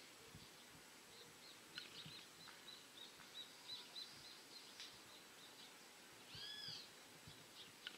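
Faint wild birdsong: a quick run of short high chirps, then about six seconds in a louder arched call of two or three stacked notes.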